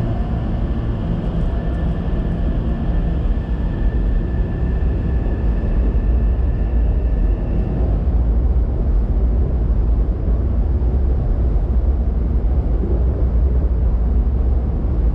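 Hankyu electric train running, a loud steady low rumble. A thin high whine over it stops about halfway through.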